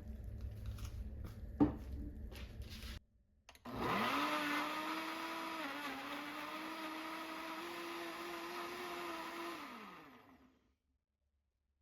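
Electric blender switched on: its motor spins up quickly, runs steadily for about six seconds, then slows and stops. Before it, light kitchen clatter with one sharp click.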